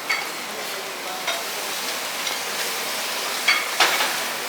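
Buffet restaurant clatter: a steady hiss with a few short, sharp clinks of dishes and cutlery, the loudest about three and a half to four seconds in.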